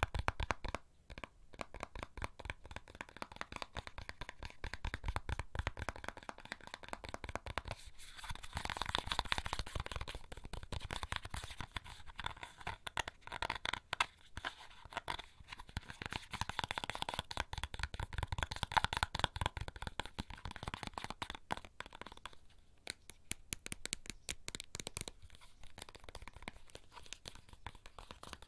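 Fingernails tapping and scratching rapidly on one of the small items carried in a leather bag, a dense run of quick clicks with a few brief pauses.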